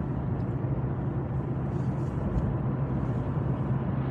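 Steady engine and road noise of a moving car, with a constant low drone.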